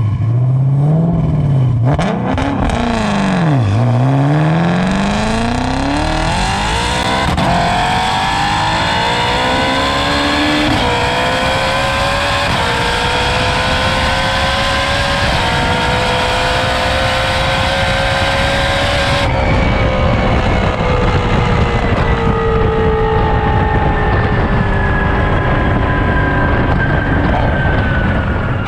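Twin-turbocharged 5.2-litre flat-plane-crank V8 of a Shelby GT350R revving up and down at the start, then accelerating hard through several quick sequential-gearbox upshifts, each a short drop in pitch. About two-thirds of the way in the sound changes suddenly as the throttle is closed, and the engine note falls steadily as the car slows.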